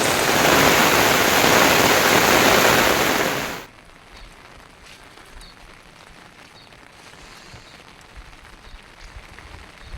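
Heavy rain falling, a loud even hiss that cuts off abruptly about three and a half seconds in, leaving a much quieter steady background.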